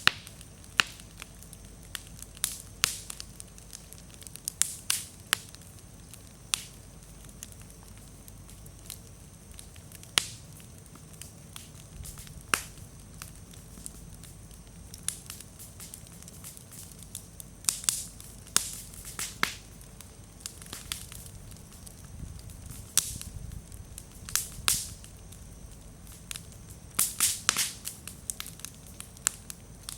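Wood bonfire crackling with frequent sharp pops at irregular intervals over a low hiss of burning, with a quick run of pops about two-thirds of the way through. The firewood is a little damp, which makes it pop and throw sparks.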